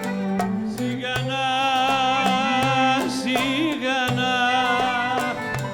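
Live Greek traditional music: a long, wavering melody line enters about a second in over a steady low drone and regular plucked or struck strokes.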